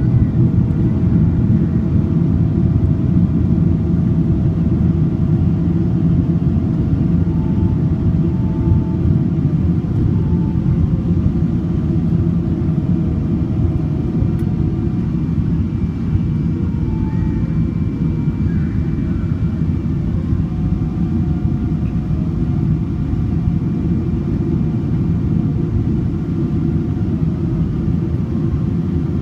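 Steady low rumble of airflow and engines heard inside the cabin of a Boeing 777-200ER airliner on its approach, with a few faint steady whining tones above it. It eases slightly a little past the middle.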